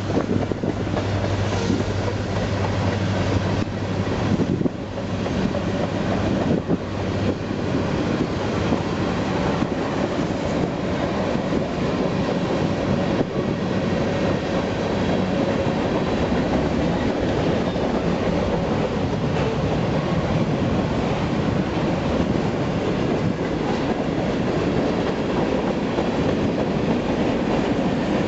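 Union Pacific freight train rolling past, its cars' wheels giving a steady rumble and clickety-clack on the rails.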